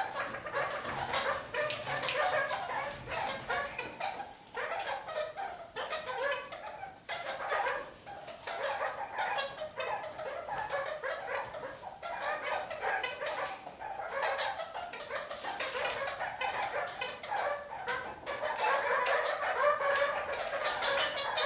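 Red-crowned kakariki (parakeets) chattering and calling without pause, a busy mix of short cackling notes, growing livelier near the end.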